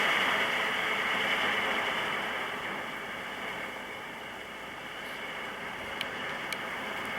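Wind gusting through tree branches, a steady rushing hiss that gradually eases off. Two faint clicks come near the end.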